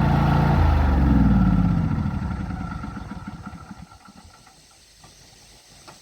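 Craftsman YT4000 riding mower's engine idling, then switched off about half a second in: it slows and falls in pitch as it runs down, dying away within about three seconds.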